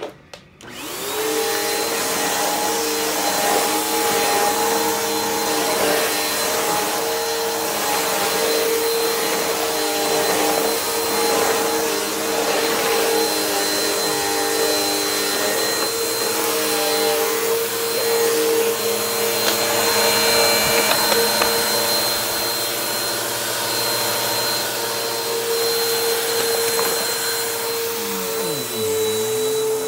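Bissell PowerForce Helix upright vacuum cleaner switched on, its motor spinning up within about a second and then running steadily with a high whine. Near the end some lower tones waver in pitch.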